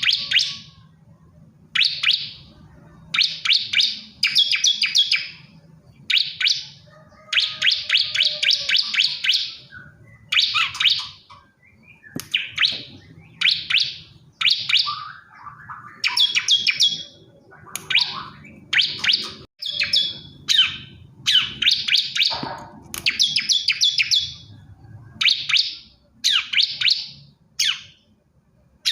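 Male bar-winged prinia (ciblek kristal) singing: short bursts of rapid, high chirping notes, one after another with brief pauses between them.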